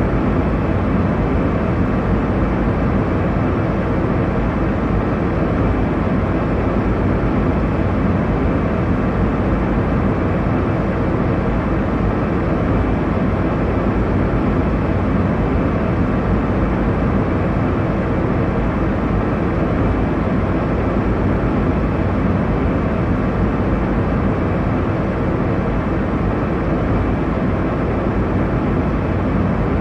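Steady airliner cabin noise in flight: a constant low rush of engine and airflow noise, even and unchanging.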